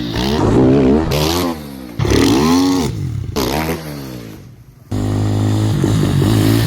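Dirt bike engine revving up and down repeatedly, in short stretches that cut abruptly about two seconds and five seconds in; in the last stretch the engine runs more steadily at a high pitch.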